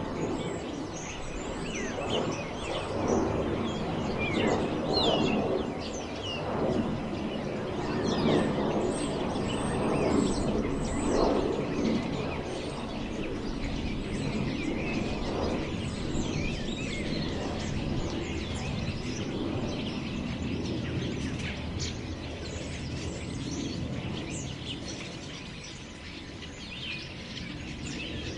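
Wind blowing through forest trees in gusts that swell and ease, with small birds chirping over it. The gusts are strongest in the first half and die down later.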